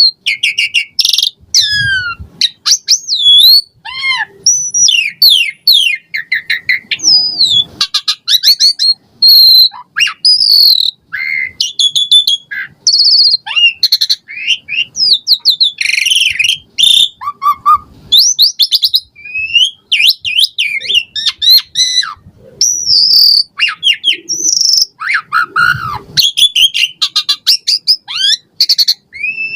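Jalak suren (pied starling) singing a fast, nearly unbroken string of varied whistles, chirps and rising and falling slides, its song filled with imitated phrases of other birds.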